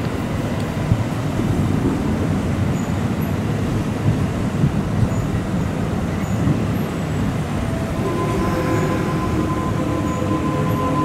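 Electric train noise at the station: a steady low rumble. About eight seconds in, a steady whine with several held tones joins it.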